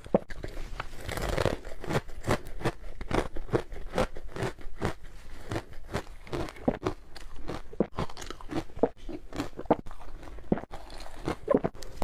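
Ice being bitten and chewed close to the microphone: a fast, irregular run of crisp crunches.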